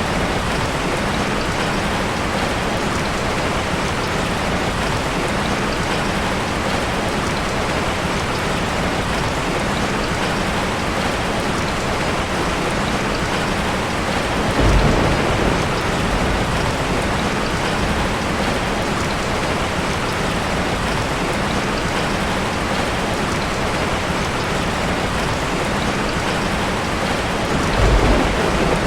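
Heavy rain falling steadily on a tin roof. Two short, low rumbles of thunder swell up, about halfway through and again near the end.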